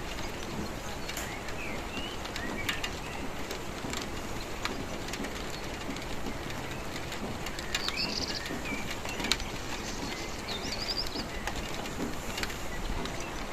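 Steady rain with drops ticking sharply here and there, while birds chirp now and then, with two short trills, one about eight seconds in and one about eleven seconds in.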